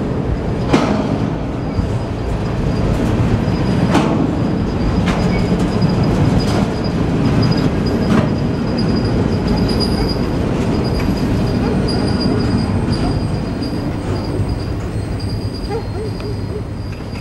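Empty bulkhead flatcars of a freight train rolling over a grade crossing: a steady rumble of wheels on rail, broken by a few sharp clanks and joined by a thin high wheel squeal. It fades near the end as the last car clears the crossing.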